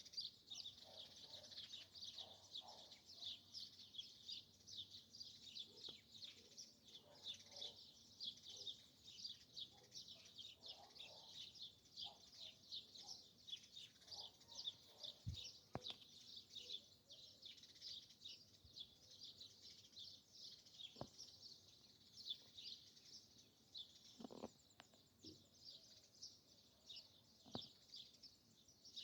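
Forest birds chirping in a dense, continuous chorus of rapid, high-pitched chirps. Some lower calls come and go in the first half, and a few faint clicks stand out here and there.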